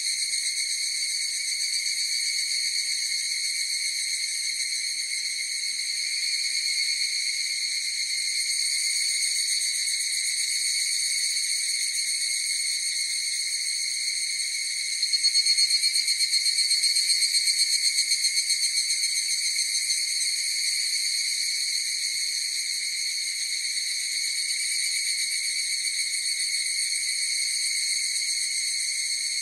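Chorus of higurashi (evening cicadas, Tanna japonensis) calling with a steady high-pitched trill. One nearer call swells louder with rapid pulsing about halfway through.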